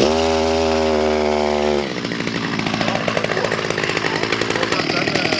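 Chainsaw catching and running at a steady high speed for about two seconds, then dropping back to a lower, uneven idle.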